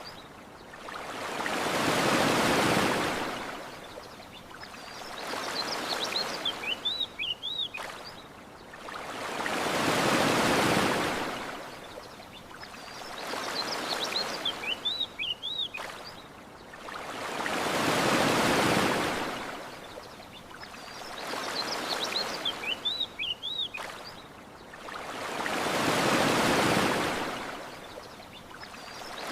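Ocean waves washing onto a beach, a big swell building and fading about every eight seconds with a smaller one between. A short burst of bird chirps sounds in each lull between the waves.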